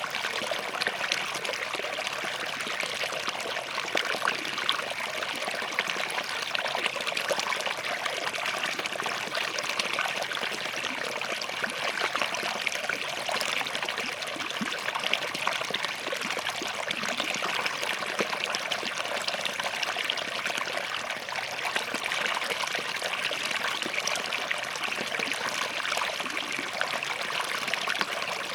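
Small forest stream running steadily between rocks, a continuous babbling trickle of water.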